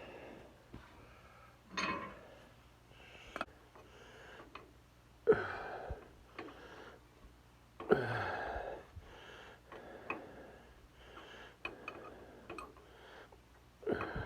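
A man's breathing and sniffing as he works, with scattered light metallic clicks and taps from a wrench and fitting being threaded into an engine crankcase.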